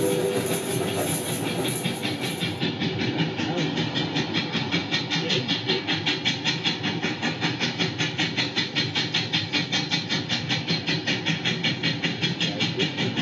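Steady rhythmic mechanical clattering, about five beats a second.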